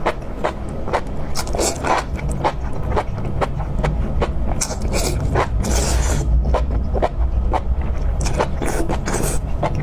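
Close-miked eating: a person biting and chewing food, with many short irregular crunches, clicks and wet mouth sounds, over a steady low rumble.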